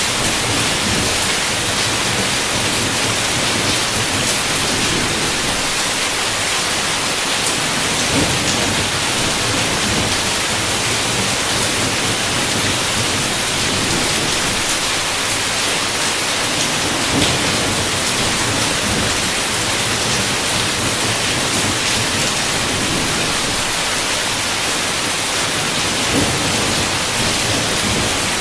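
Heavy rain falling steadily as a dense, even hiss, with a few sharper drop impacts standing out now and then.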